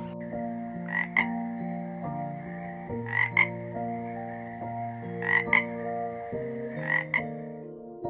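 Frog croaking in short double calls, four pairs spaced about two seconds apart, over a steady high trill and soft background music.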